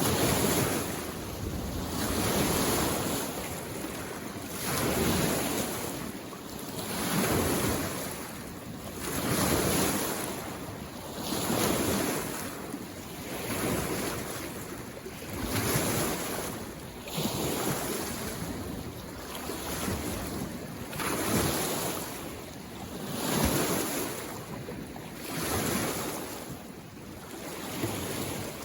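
Small lake waves washing onto the shore, one about every two seconds, each rising and falling away over a steady hiss.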